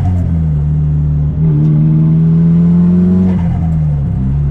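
Straight-piped Nissan Silvia S15's SR20DET turbo four-cylinder pulling through its open exhaust, pitch climbing steadily with a brief dip about a second in, then dropping back near the end as the throttle eases off.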